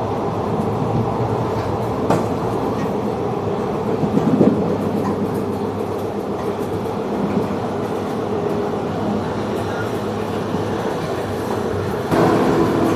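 Kaveri Express passenger train running along the track: a steady rumble with wheel clatter, a sharp click about two seconds in, and a step up in loudness near the end.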